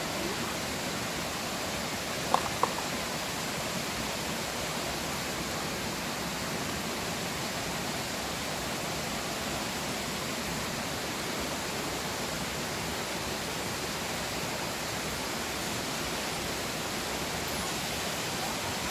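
Stream water flowing, a steady even rushing. Two short sharp taps sound about two and a half seconds in.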